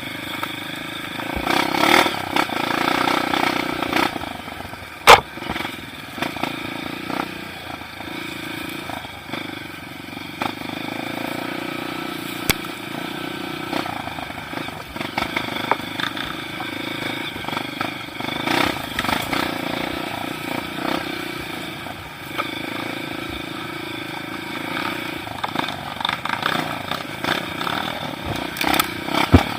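Motorcycle engine running steadily with slight changes in speed, with scattered knocks and clatter, one sharp knock about five seconds in.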